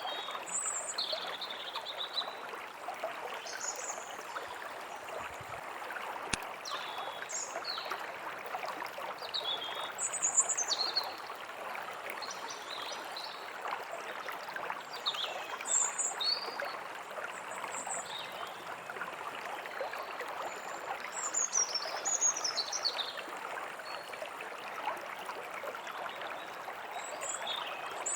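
Running water from a small stream, steady and unbroken, with songbirds chirping in short, scattered calls throughout.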